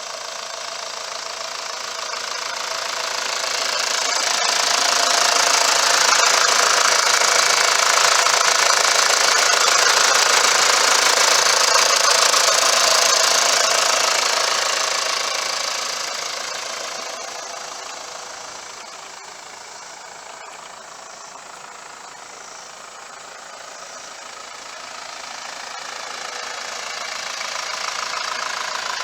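Mitsubishi Fuso FE145's 4.9-litre turbo diesel engine idling steadily with the cab tilted open. It grows louder over the first several seconds, eases off past the middle, and rises again near the end.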